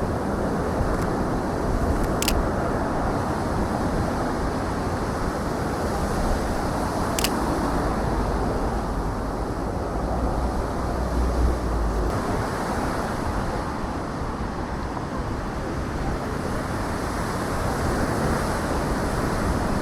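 Steady city traffic noise with wind rumbling on the microphone; a heavier low rumble near the middle, like a vehicle going by. Two short, sharp high clicks a few seconds apart near the start.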